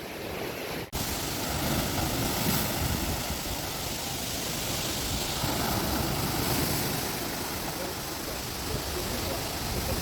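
Steady rush of falling water and sea surf on a rocky shore, an even wash of noise that drops out briefly about a second in, then runs on without change.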